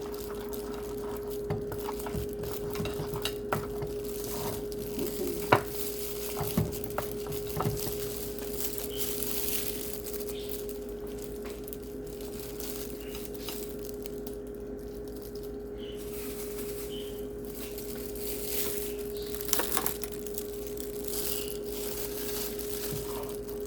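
Spoon and pot clinking and scraping as soup is stirred and served, in scattered knocks that bunch in the first third and again near the end. A steady low hum and a light hiss run underneath.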